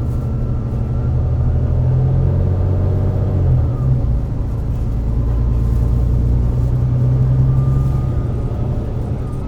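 Volvo D9B-310 six-cylinder diesel engine of a Volvo B9TL double-decker bus with a Voith DIWA automatic gearbox, running under way with a deep, steady note. The engine note shifts about three and a half seconds in, then runs steadily again.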